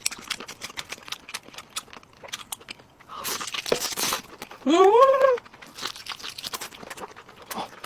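Close-miked eating sounds: crunchy chewing with many small wet clicks, a longer noisy stretch about three seconds in, and a short hum that rises and falls at around five seconds.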